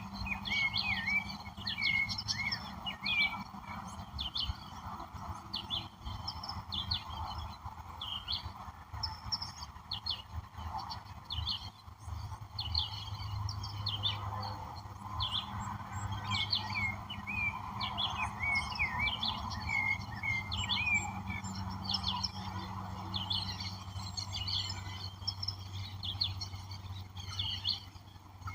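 Chorus of several wild birds chirping and calling in quick, short notes, over a steady background hiss and a low hum.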